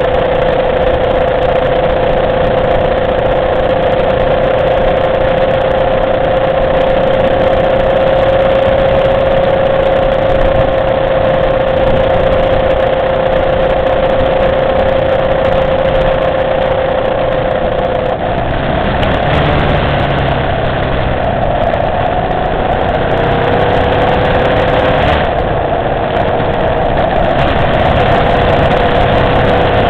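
Motorcycle engine running at a steady pitch while riding, under a continuous rush of wind noise. About eighteen seconds in, the engine note breaks and settles at a slightly different pitch.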